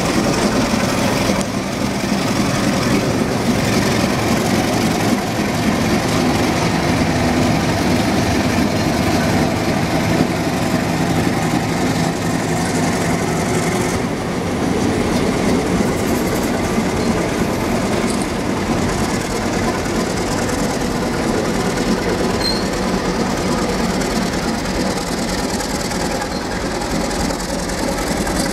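Napa Valley Wine Train pulling slowly into the station: its ALCO FPA-4 diesel locomotive runs steadily as it passes, then the passenger cars roll by on the rails.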